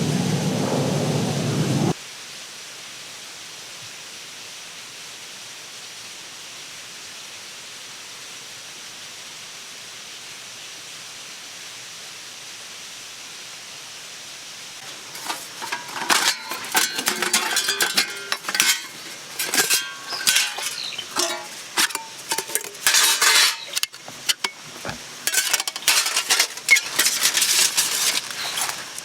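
A low rumble that cuts off suddenly about two seconds in, then a long stretch of faint steady hiss. From about halfway through comes a fast, irregular run of sharp clinks and scrapes of metal utensils against camp cookware.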